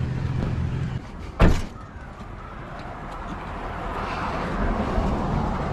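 A vehicle door slams shut once, about a second and a half in, just after a steady low hum stops. A rush of street traffic noise then rises gradually.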